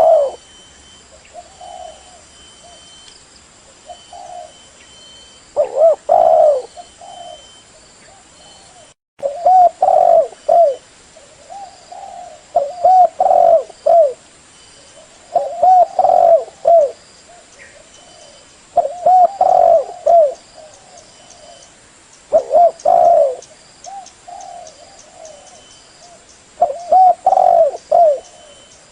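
Spotted dove (tekukur) cooing: phrases of several coos, repeated about every three seconds. The sound drops out briefly about nine seconds in.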